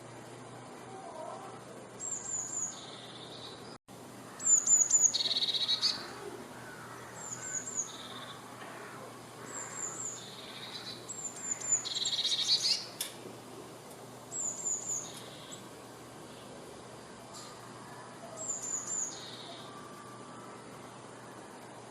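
Eurasian blue tit singing: about seven phrases, each of three or four thin, high, falling notes followed by a lower trill, repeated every two to three seconds, loudest about four seconds in and again about twelve seconds in.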